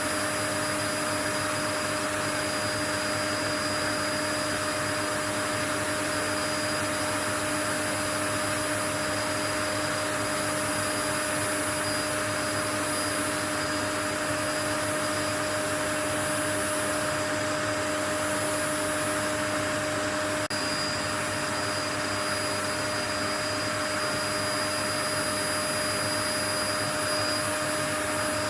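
Steady white noise: an even, unchanging rush of hiss with a few steady whining tones running through it, much like a running appliance motor.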